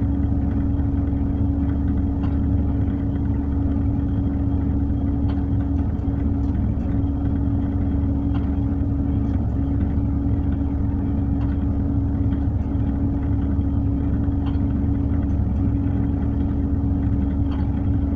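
Tugboat's diesel engine running steadily: a low rumble with a constant hum above it and a few faint ticks.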